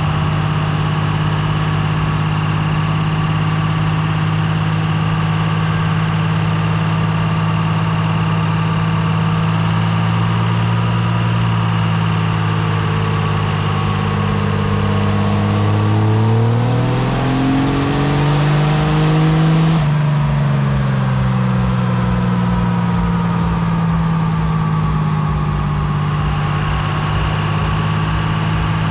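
Truck engine idling steadily, then revved up once from about halfway through, held briefly, and let drop back to idle.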